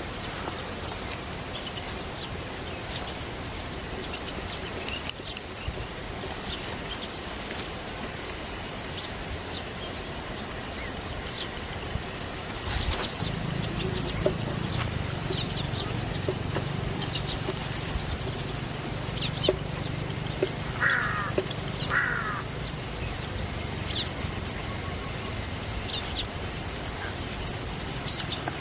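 Outdoor ambience with scattered short, high bird chirps and two brief fluttering calls near the end. A low steady hum sets in about halfway through and fades a few seconds before the end.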